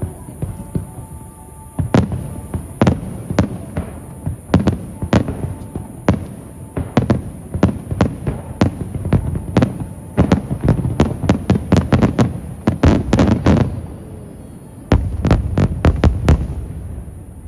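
Aerial fireworks shells bursting in rapid volleys, several booms a second overlapping with a low rumble between them. There is a brief lull about fourteen seconds in, then a final tight cluster of bursts that stops abruptly near the end.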